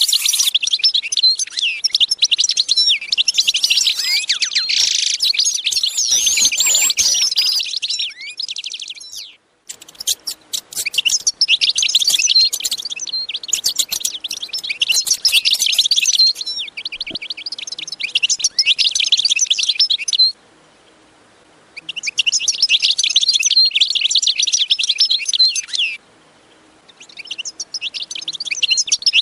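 Birds chirping in a dense, rapid twitter of high chirps. It cuts off abruptly three times for a second or so, then resumes.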